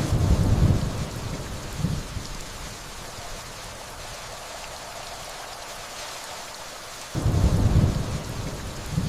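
Steady rainfall with two low rumbles of thunder: one breaking right at the start and swelling again about two seconds in, and another starting about seven seconds in, each dying away over a couple of seconds.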